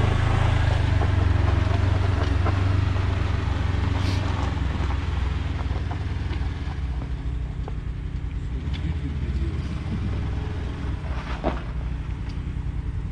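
An engine running steadily at idle, a low even hum that eases off slightly, with a few faint clicks.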